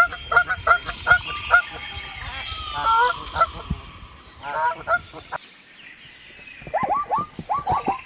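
A bird's loud honking calls, short and repeated several times a second, with a more drawn-out call about three seconds in. They break off about five seconds in, and from about seven seconds a new quick run of short calls with falling pitch begins.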